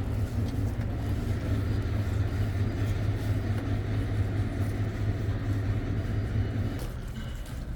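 Pressure washer running with a steady low motor hum and the hiss of spray, which drops away about seven seconds in.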